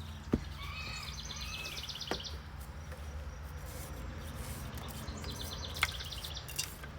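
A songbird sings two short, fast trilled phrases over a steady low hum, with a sharp click just after the start and a fainter one near the end.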